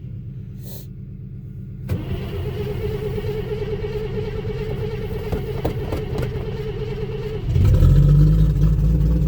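1954 Chevrolet Bel Air's 235 cubic-inch inline-six cranking on its starter in a steady churn from about two seconds in: a cold start after a month sitting in 10-degree weather. About three-quarters of the way through it catches and runs, suddenly louder and deeper.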